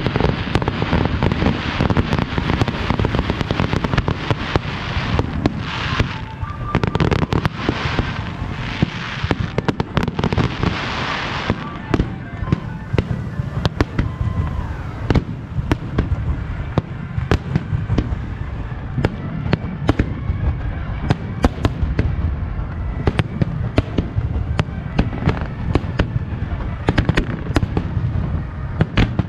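Star mine firework barrage: shells bursting in rapid succession with many sharp bangs over a continuous low rumble. A spell of hissing crackle comes in about six seconds in and stops at about eleven.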